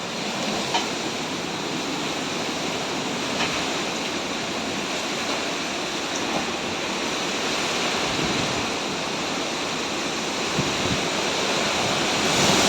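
Hurricane-force wind with driving rain, a steady heavy rushing with a few faint ticks in it.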